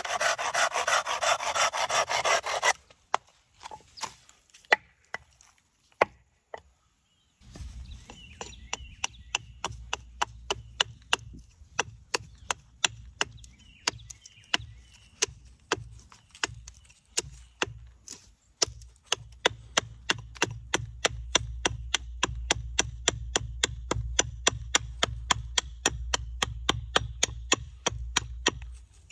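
Hand tools working walnut wood. For the first few seconds there are dense rasping strokes. After a short pause comes a steady run of sharp clicks, about three a second, over a low hum.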